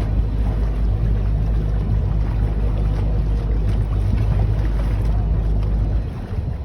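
Tour boat's engine running with a steady low hum, wind buffeting the microphone; the deepest part of the hum drops away about six seconds in.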